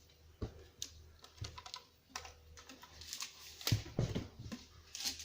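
Irregular light clicks and taps of items being handled, with a louder knock about three and a half seconds in.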